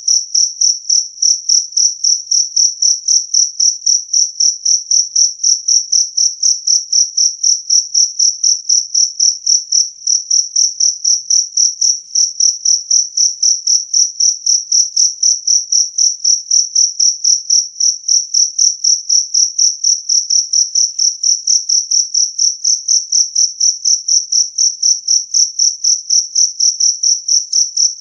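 Jangkrik kalung (two-spotted cricket, Gryllus bimaculatus) chirping loudly and steadily: a high-pitched, clear trill repeated about three times a second without a break.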